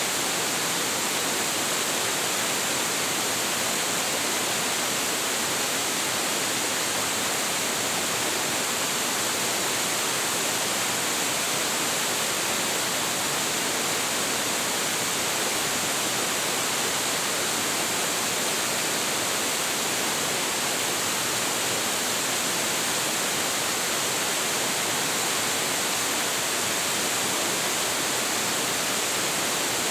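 A large waterfall with a heavy flow of water pouring down, a steady, unbroken rushing roar.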